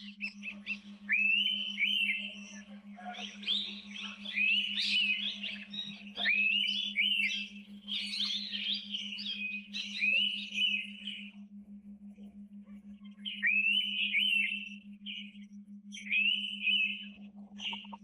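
Birds singing in the forest: bursts of clear whistled notes, many with quick upward-sweeping starts, overlapping almost without pause for the first ten seconds, then breaking off and returning in two shorter bursts. A steady low hum runs underneath.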